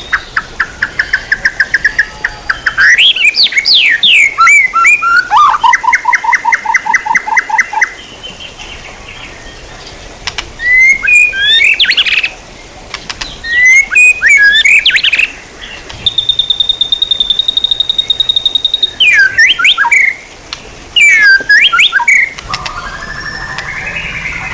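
Songbird song in varied phrases: fast trills of evenly repeated notes, quick whistled up-and-down sweeps and chatter, with a long, high, even trill about two-thirds of the way through.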